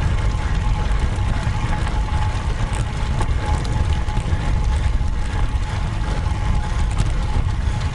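Wind buffeting the microphone of a camera riding on a road bike: a steady, loud, gusting rumble with a faint steady tone.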